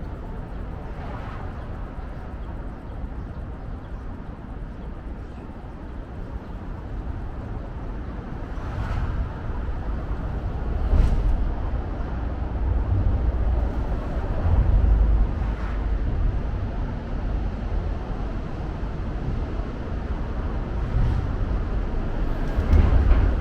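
Steady city traffic rumble with low swells that grow louder a few times in the second half.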